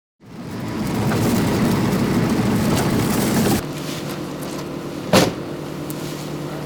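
A motor vehicle on the move. A loud rumbling noise fades in after a moment of silence and stops abruptly about three and a half seconds in. A steadier engine hum follows, broken once by a short sharp burst of noise.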